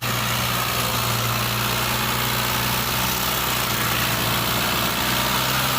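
Tractor engine running steadily with an even low drone.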